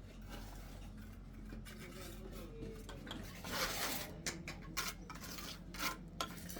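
Hard objects being handled, scraping and knocking, with a longer scrape about three and a half seconds in and several sharp clicks after it, over a steady low hum.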